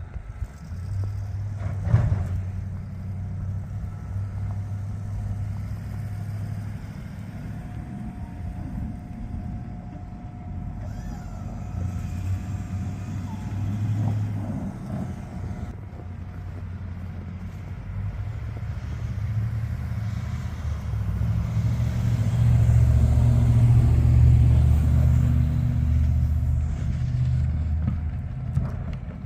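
Snow-plow truck engine running steadily, with a sharp knock about two seconds in. It grows louder from about twenty seconds in and eases off near the end.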